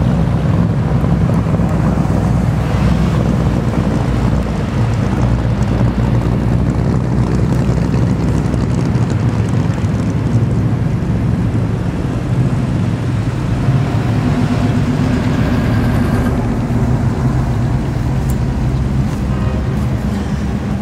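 Engines of classic and muscle cars passing one after another at parade pace: a steady low engine drone that goes on without a break as each car goes by.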